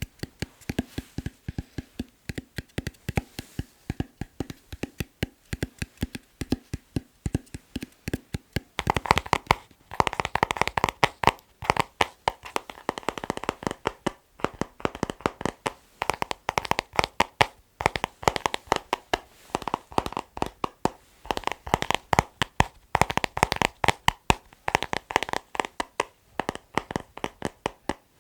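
Rapid rhythmic fingertip tapping on objects. About nine seconds in, the taps switch from a dull, low tap to a brighter tap on an item that rings a little.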